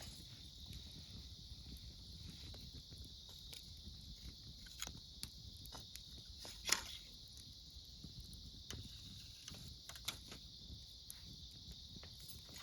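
Wood fire crackling, with scattered sharp pops of burning wood, the loudest a little past the middle, over a steady high chorus of autumn insects.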